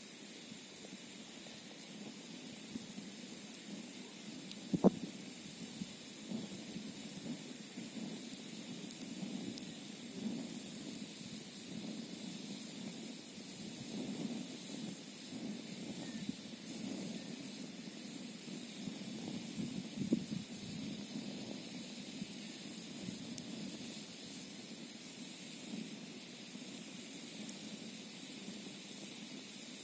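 Campfire burning: a low, fluttering rumble of flames with a few sharp crackles, the loudest about five seconds in and another around twenty seconds, over a steady high hiss.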